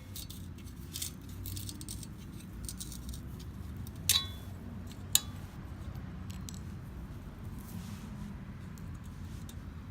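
Small metallic clinks and rattles of hand tools and metal being handled, with two sharp clinks about four and five seconds in, over a low steady hum.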